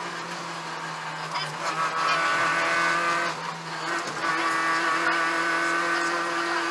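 Peugeot 205 1.9 GTI's four-cylinder engine running hard at speed, heard from inside the stripped rally cabin. The note holds fairly steady, with brief breaks about one and a half and four seconds in.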